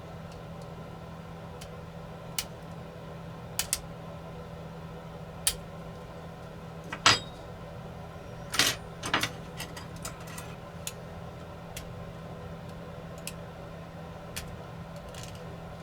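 Scattered small clicks and taps of hand tools working on a drone's small plastic parts, the loudest a few about seven to nine seconds in, over a steady low hum.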